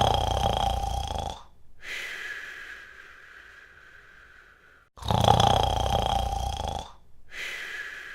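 Cartoon snoring sound effect: twice, a loud rasping snore breathed in, followed by a softer, higher whistling breath out.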